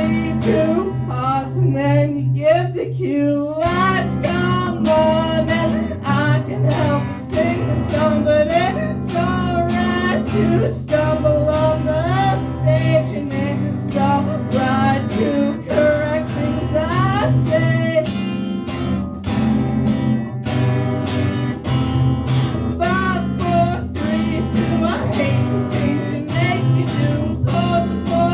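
Live acoustic guitar strummed steadily under a melody line that bends and wavers in pitch.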